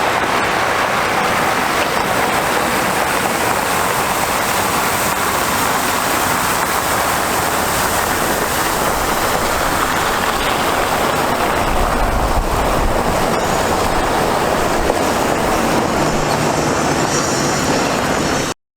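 Mack water truck running with a loud, steady rushing noise, rumbling briefly about twelve seconds in, and cutting off abruptly near the end.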